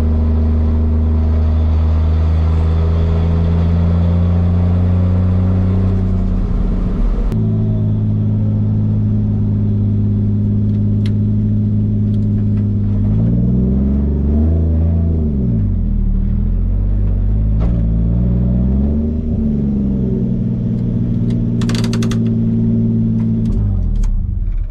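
Toyota 1JZ straight-six engine in a Nissan 240SX, heard from inside the cabin while driving, its note stepping once and then rising and falling as the revs change. Right at the end the engine sound cuts off suddenly, an unexpected stop that the driver puts down to being nearly out of gas with a gas gauge that doesn't work.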